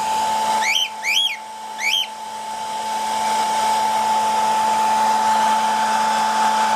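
A cockatiel gives three short chirps, each rising and then falling, in the first two seconds, over a steady motor whir with a constant whine, like a hair dryer or small fan. The whir's hiss grows louder through the rest.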